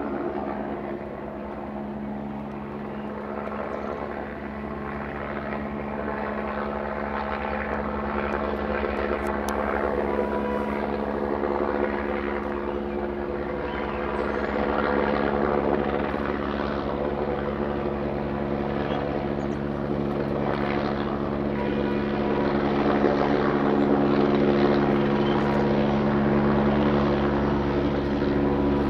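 Helicopter flying nearby: a steady rotor and engine drone that grows gradually louder.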